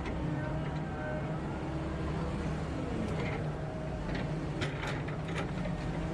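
Diesel engine of heavy forestry machinery running steadily, with scattered sharp clacks and knocks, most of them in the second half.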